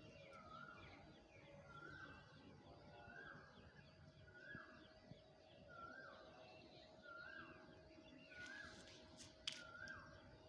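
A bird calling over and over, faint: a short call repeated about every second and a half, with fainter quick chirps behind it. A few sharp clicks come near the end.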